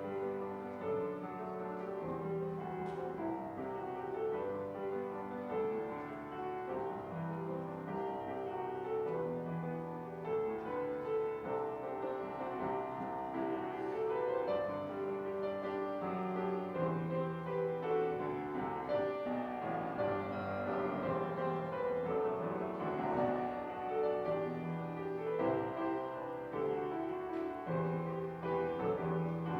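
Instrumental piano music: a slow melody over held chords, played without singing.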